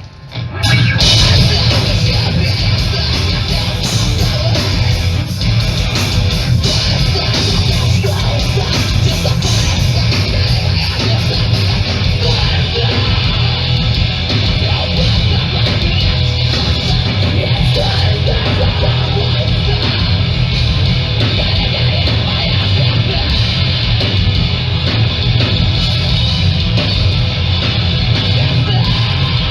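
Hardcore punk band playing live at full volume: distorted electric guitars, bass and drums in a dense, continuous wall of sound. A brief dropout right at the start, then the music cuts back in.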